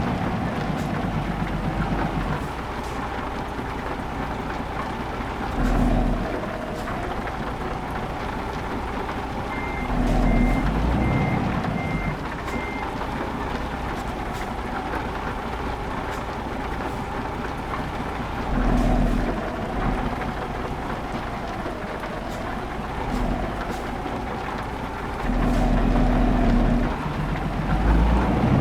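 Truck engine running as the truck manoeuvres, with louder low rumbles several times. About a third of the way in, a reversing alarm beeps about five times.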